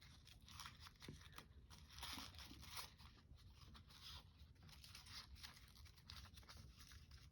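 Faint rustling and crinkling of paper being handled and folded into a knot by hand, in scattered short bursts of sound, a little louder about two to three seconds in.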